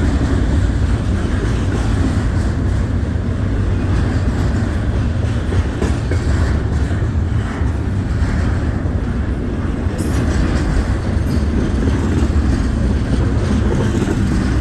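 Norfolk Southern mixed freight train passing close by at speed: a steady, loud rumble of freight cars rolling over the rails.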